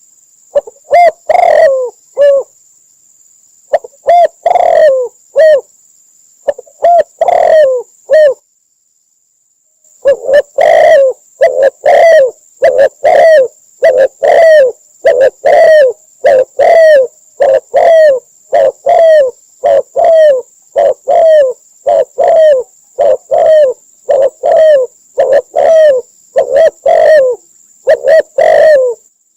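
Spotted dove cooing loudly and repeatedly. A few coo phrases cut briefly to dead silence about a third of the way in, then come again in a steady run of roughly one coo a second.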